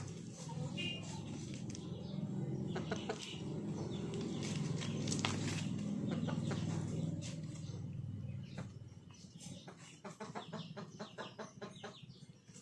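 Chickens clucking amid many short, sharp clicks. A low, steady rumble runs under them and fades out about eight seconds in.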